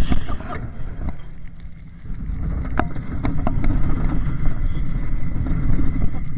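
Onboard a roller coaster: wind buffeting the camera microphone and the train rattling along the track, with scattered clicks and knocks. The noise eases briefly about a second in, then builds back up and stays loud.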